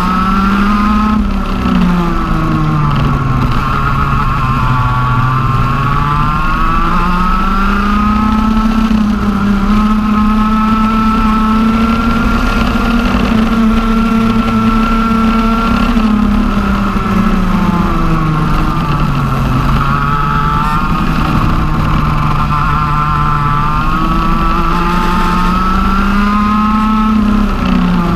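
TM OK-class two-stroke kart engine running hard at racing speed, its pitch climbing as it accelerates and dropping for corners. It holds high for several seconds in the middle, with dips a few seconds in, near two-thirds through and at the end.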